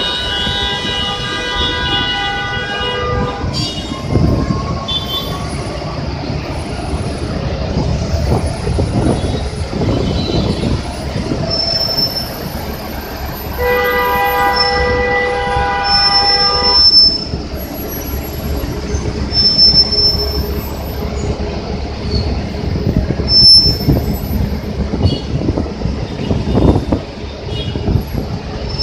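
City buses running at a busway station, their engines giving a steady low rumble. Twice a long, steady, high-pitched squeal sounds for about three seconds: once at the start and again around the middle.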